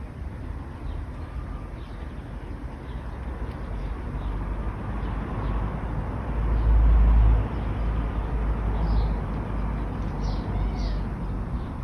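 Road traffic: a passing vehicle's low rumble builds to a peak a little past the middle, then eases into a steady traffic wash. Birds chirp briefly throughout, more often near the end.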